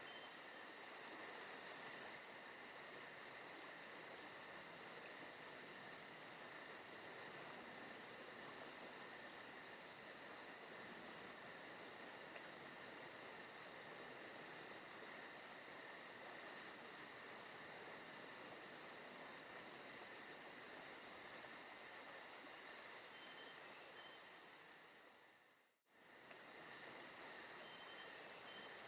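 Faint, steady chorus of crickets and other insects chirping, from a recorded forest ambience track. The sound fades away briefly about 26 seconds in, then returns.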